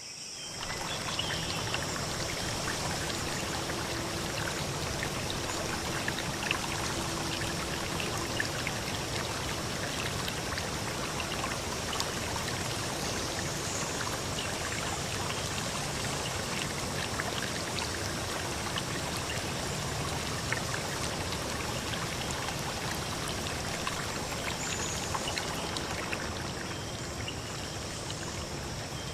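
Steady rush of flowing river or stream water, starting suddenly at the beginning.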